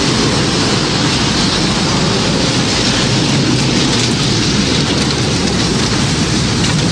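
Tornado sound effect: a steady, loud rush of storm wind and heavy rain, with no siren audible.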